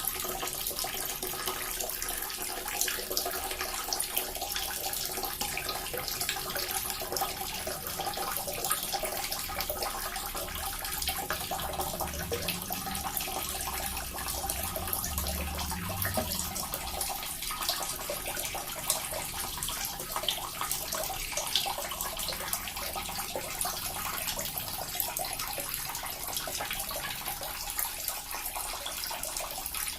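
Small water fountain running: a steady trickle and splash of falling water with fine continuous dripping.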